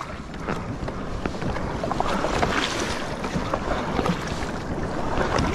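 Water splashing and rushing against a moving kayak, with wind buffeting the microphone.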